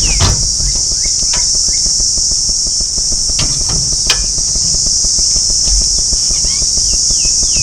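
Loud, steady, high-pitched insect drone from a chorus of insects, with a few short falling chirps now and then and a low rumble of wind on the microphone underneath.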